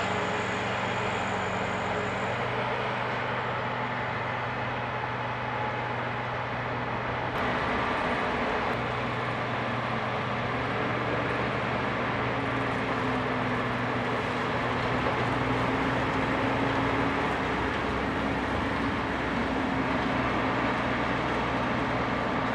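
Heavy diesel harvest machinery running steadily: a constant low engine hum under a dense mechanical hiss, with a faint tone rising slightly about halfway through.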